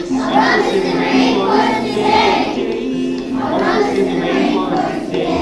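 A choir of children's voices singing a song with instrumental accompaniment.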